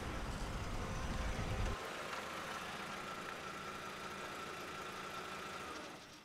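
SUV engine idling with a low rumble, switched off about two seconds in; a faint, steady high whine carries on after it.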